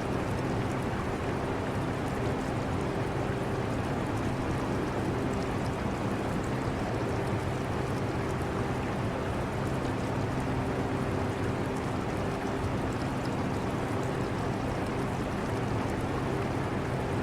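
Portable air conditioner running with a steady hum and rush of air, mixed with aquarium water trickling.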